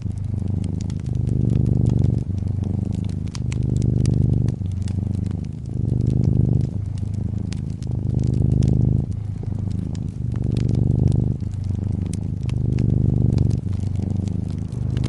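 Domestic cat purring close up, a deep rumble that swells and fades with each breath, roughly once a second. Over it, a wood fire in a fireplace crackles with scattered sharp pops.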